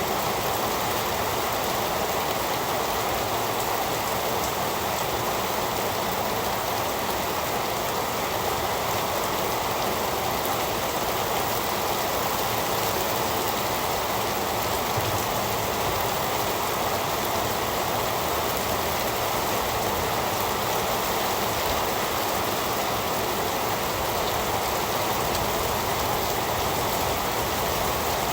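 Heavy rain falling in a steady, even downpour, with no thunder or single drops standing out.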